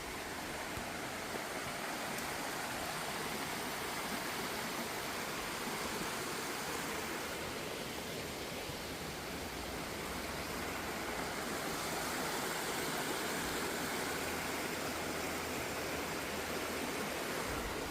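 Steady rush of a woodland stream's rapids.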